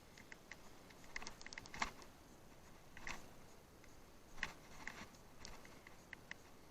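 Bicycle ridden over rough ground, giving faint, irregular clicks and ticks over a low hiss.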